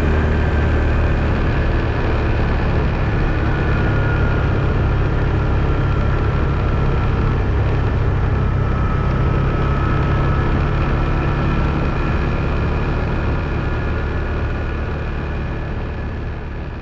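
ATV engine running steadily, with a faint whine above it that sags slightly in pitch midway; the sound fades down near the end.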